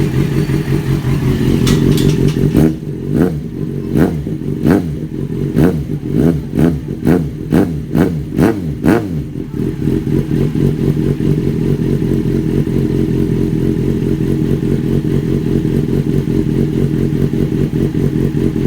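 Yamaha XJ6's inline-four engine breathing through a custom SC Project replica exhaust with a spiral link pipe: idling steadily, then blipped about ten times in quick succession, each rev rising and falling, before it settles back to a steady idle for the rest of the time.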